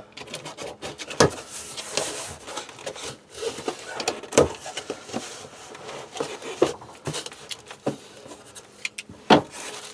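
Cardboard box being opened and its contents handled: irregular rustling and scraping with scattered knocks, the sharpest about a second in, around the middle and near the end.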